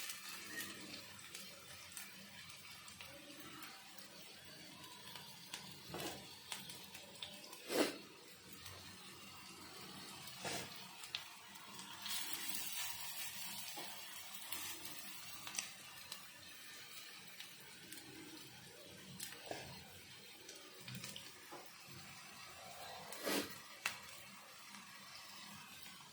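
Potato-and-corn tikkis shallow-frying in oil in a pan, a faint steady sizzle, with occasional knocks, the loudest about eight seconds in.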